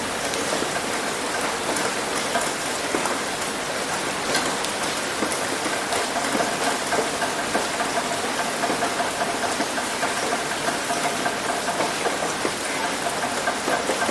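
Heavy rain hitting a roof: a dense, steady patter of drops with many sharp individual hits.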